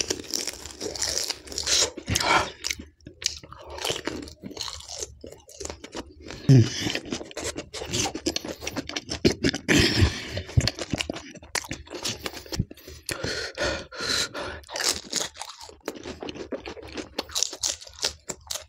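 Close-miked crunching and wet chewing of crisp pani puri shells filled with pani and raw green chillies, bite after bite in quick irregular crunches.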